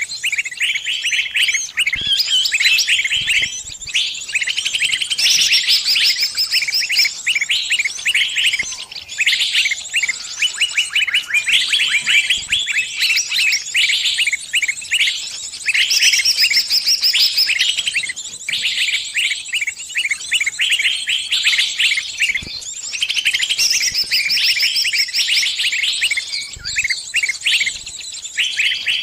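A small bird giving rapid, high-pitched distress chirps in dense runs with short gaps: the alarm cries of a trapped bird calling for help.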